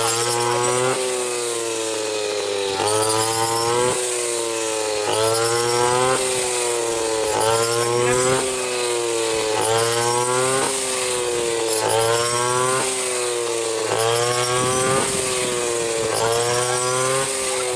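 Small petrol engine of a harvesting machine running under a rhythmic load: its pitch climbs and then drops sharply about once a second, over and over, as the load comes and goes.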